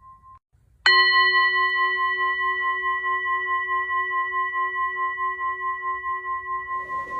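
A singing bowl struck once, about a second in, ringing on with a low fundamental and several higher overtones that waver in a slow pulse as the tone slowly fades. The previous ring is cut off just before the strike, and a faint hiss comes in near the end.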